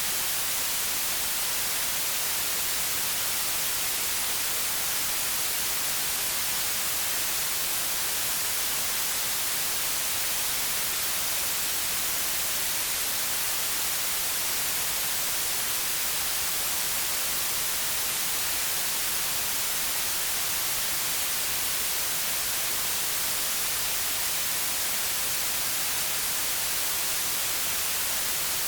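Steady synthetic white noise: an even, unchanging hiss with most of its energy in the highs.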